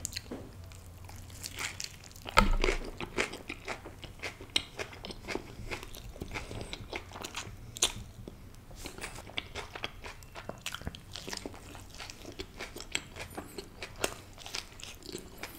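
Close-miked chewing and biting of a stuffed tortilla wrap: wet mouth sounds with many small sharp clicks, and a louder thump about two and a half seconds in.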